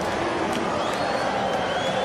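Crowd hubbub at a small-sided football match: many voices shouting and chattering at once, with a few short high-pitched calls on top.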